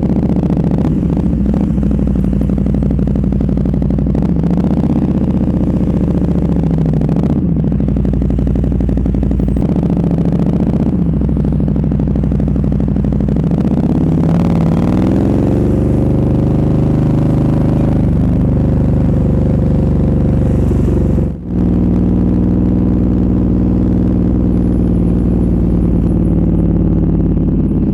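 Motorcycle engine through an aftermarket exhaust running at low speed, its revs rising and falling gently, with one clear climb about halfway through. The sound drops out for an instant about three-quarters of the way in.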